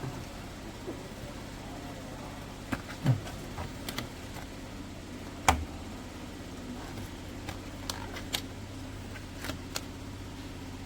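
A steady low machine hum with sharp clicks and taps scattered through it, the loudest about three and five and a half seconds in.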